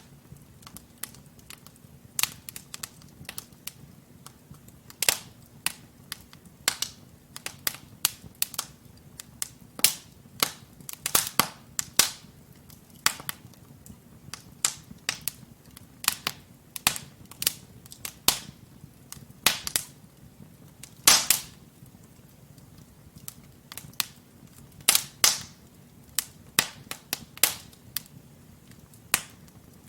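Wood logs burning in a fireplace, crackling with irregular sharp pops and snaps, a few of them much louder, over a faint low background of the fire.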